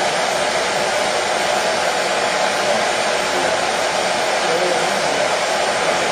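Hair dryer running steadily, a constant whooshing blower noise used as white noise to soothe colicky babies to sleep.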